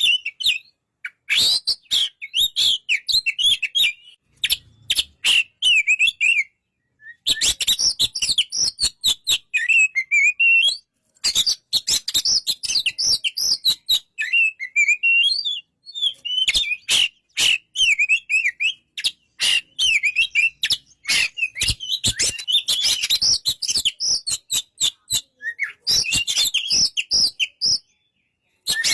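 Oriental magpie-robin (kacer) singing a fast, varied song of chirps, short whistles and sharp clicking notes, broken by brief pauses.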